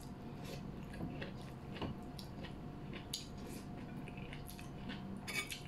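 A person chewing soft boiled beef eaten by hand, with faint wet mouth clicks and smacks scattered throughout and a slightly louder cluster near the end. A faint steady hum runs underneath.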